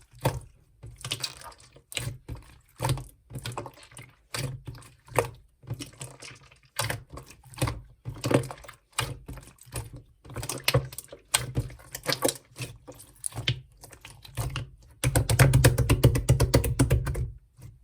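Slime being squeezed and worked by hand, giving sticky clicking and squelching pops every second or so. Near the end comes a fast run of crackling pops.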